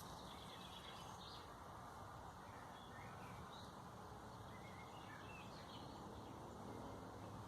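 Faint, scattered bird chirps, a few short high calls spread over several seconds, above a steady low ambient rumble.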